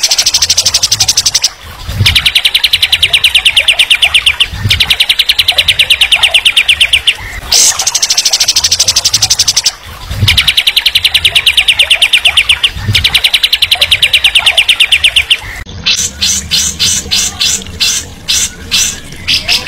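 A songbird singing rapid, even trills in phrases about two and a half seconds long with short pauses between them. Near the end it changes to slower, separate notes, a few a second.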